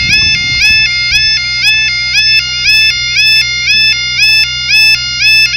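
Level crossing warning alarm: an electronic two-tone yodel, alternating between a low and a high pitch about twice a second, that cuts off suddenly near the end.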